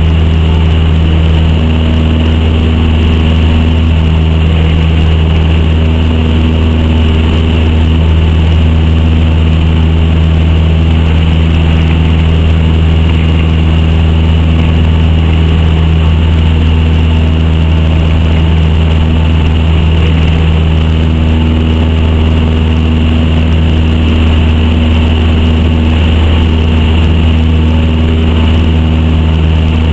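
Cessna 152's four-cylinder Lycoming O-235 piston engine and propeller running at a steady, unchanging speed: a loud, even drone.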